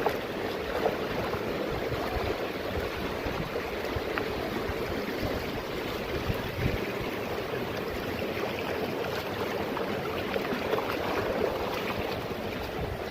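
Steady rush of flowing mountain water, with a few faint short knocks over it.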